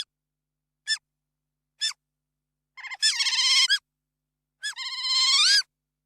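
Otter calling: three short, high chirps about a second apart, then two longer, whistled squeals, each rising in pitch at the end.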